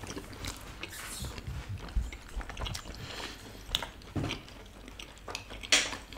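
Close-miked chewing with the mouth closed: soft wet mouth clicks and smacks, a few louder ones about two, four and nearly six seconds in.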